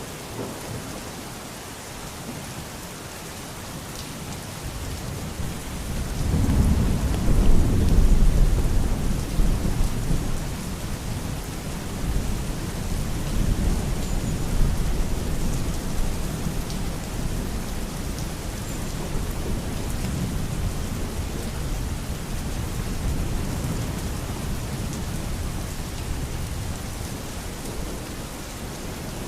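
Steady rain falling, with a long roll of thunder that builds about five seconds in, is loudest a few seconds later and slowly rumbles away.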